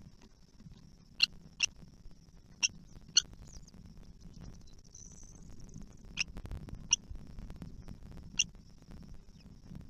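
Kestrel chicks in the nest giving short, sharp, high-pitched calls, seven single peeps at uneven intervals, over a faint steady high hiss.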